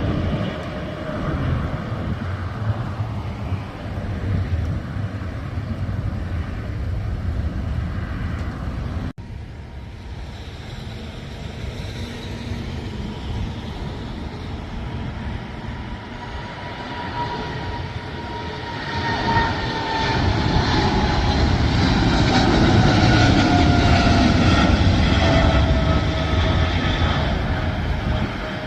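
Jet airliner engines at take-off: a steady rumble, then, after a sudden cut about nine seconds in, the engine noise builds again with a whine that falls slowly in pitch as the plane passes, loudest near the end.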